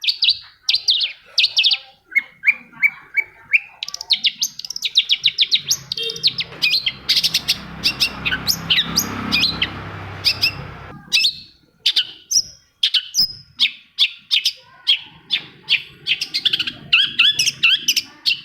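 Long-tailed shrike (cendet) song: a fast, unbroken run of sharp chirps and sweeping whistled notes. A rushing noise lies underneath from about six to eleven seconds in.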